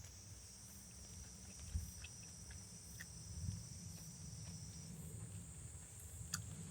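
Insects chirring in steady, high-pitched drones, one of them stopping about five seconds in, over a low rumble with a few faint clicks.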